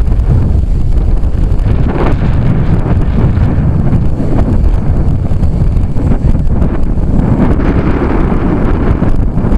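Gusty crosswind buffeting a hat-mounted camera's microphone: a loud, constant low rumble that swells in gusts, about two seconds in and again near the end.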